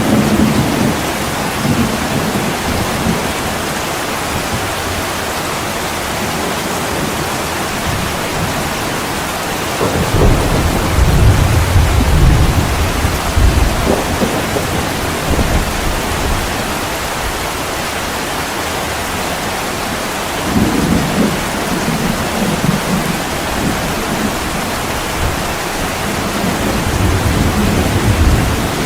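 Steady heavy rain against a window, with rolling thunder rumbling low several times: at the start, for a few seconds about ten seconds in, again around twenty seconds, and building near the end.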